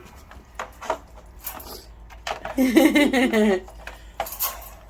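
Scattered light metallic clinks and rattles from a dog moving about in his crate as he eats a treat, with a short voice sound a little past halfway.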